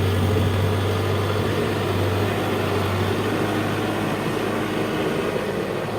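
Diesel engine of a heavy construction machine, such as a backhoe loader or bulldozer, running steadily with a low hum, easing slightly in level.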